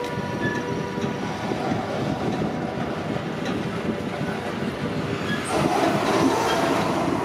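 Freight train of container wagons loaded with tank containers rolling past at speed, a steady rush of wheel and rail noise that grows louder about five and a half seconds in.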